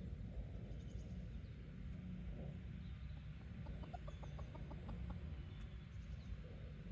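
Domestic chickens clucking softly, with a quick run of about eight clucks a second starting about four seconds in. Small wild birds chirp faintly in the background.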